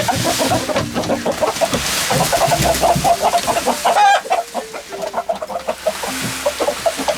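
Several chickens clucking in quick, overlapping calls, with one louder call about four seconds in.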